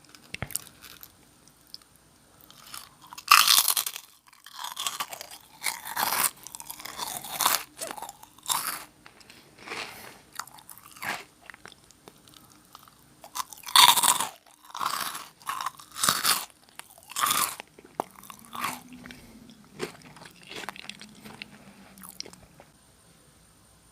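Nongshim Jagalchi crispy snack bitten and chewed close to the microphone: two loud crunching bites, about 3 seconds and 14 seconds in, each followed by a run of crunchy chews that soften and fade out near the end.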